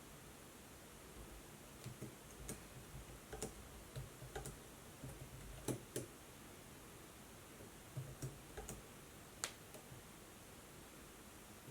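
Faint, scattered clicks from a laptop, about ten at irregular gaps of a fraction of a second to a couple of seconds, over a light steady hiss.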